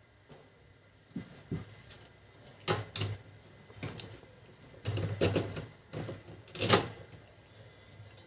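Irregular clacks and knocks from a Canon LBP2900 laser printer's fuser unit and casing being handled and moved by hand, about half a dozen sharp knocks with a louder cluster around the middle.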